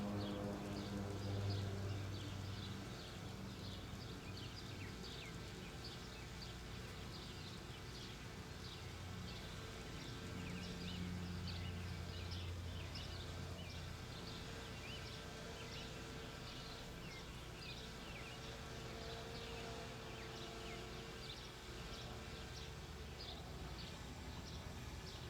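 Birds chirping over and over in short, high, falling notes, over a low steady engine drone that swells and fades a little, the crop-duster airplane working the fields.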